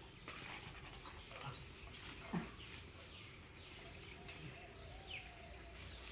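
Faint animal sounds with short, high, falling chirps, a single sharp knock about two and a half seconds in, and a faint steady tone in the second half.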